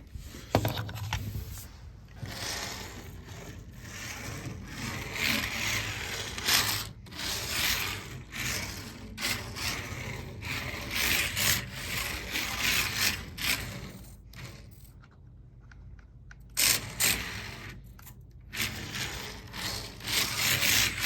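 Jaibaile 1:43-scale mini electric RC drift car driven in bursts on a ping pong table: the tiny motor whirring and the hard tyres scrubbing and sliding across the tabletop, swelling and fading with the throttle, with a quieter lull about three-quarters of the way through.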